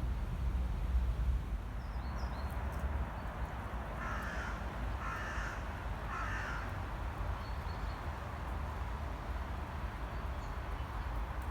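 A crow cawing three times, the calls about a second apart.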